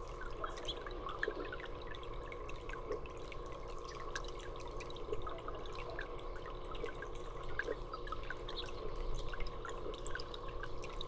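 Water dripping and trickling steadily, many small drops landing, over a low steady hum.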